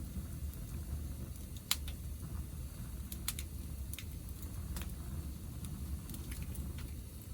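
Wood fire crackling in a Picogrill fire pit: sharp irregular pops and snaps over a steady low rumble.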